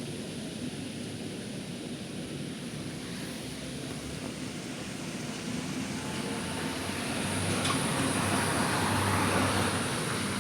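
Steady rushing rumble of an unexplained noise in the sky, growing louder from about seven seconds in.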